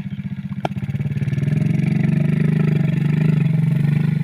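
Motorcycle engine running with a fast steady pulse, growing louder about a second in as it pulls harder.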